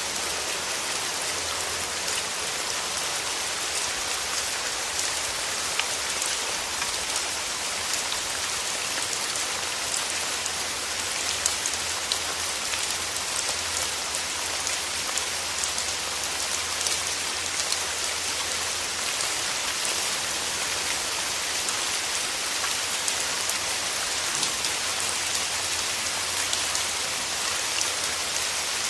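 Steady rain falling and pattering on surfaces, an even hiss full of fine drop ticks.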